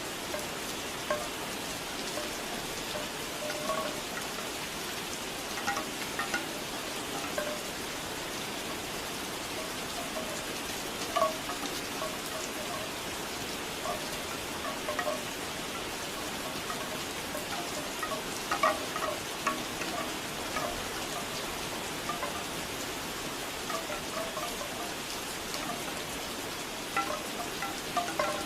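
Steady rain falling, with bamboo wind chimes knocking irregularly over it in loose clusters of hollow clacks.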